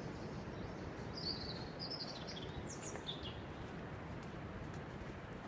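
A songbird chirping: a short run of high calls from about a second in, lasting around two seconds, over a steady background hiss of forest ambience.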